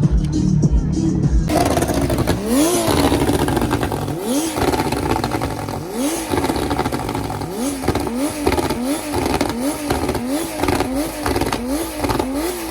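Car engine revved over and over, each blip rising in pitch and dropping back, coming faster in the second half. The opening second and a half is background music with a beat.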